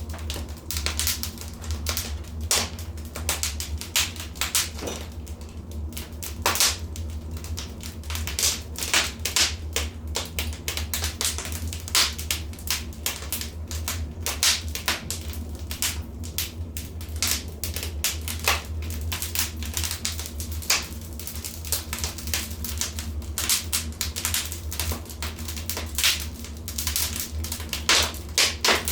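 Wood fire in a fireplace crackling and popping, with frequent irregular snaps, a few sharper pops standing out, over a steady low rumble of the flames.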